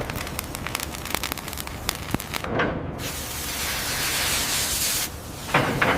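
Rapid irregular crackling clicks, then a steady hiss like a spray.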